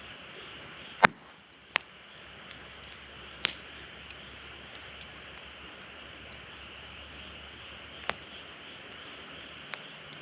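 Wood fire burning in a fire-pit stand: a steady soft hiss with five sharp pops, the loudest about a second in.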